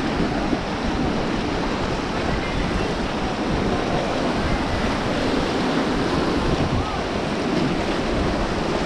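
Rushing river water, a steady wash of noise, with wind buffeting the microphone.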